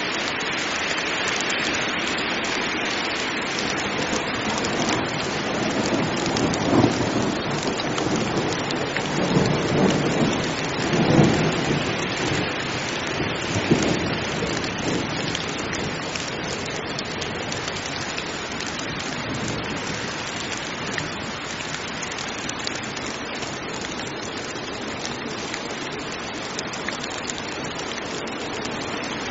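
Heavy rain falling steadily, with thunder rumbling for several seconds in the first half.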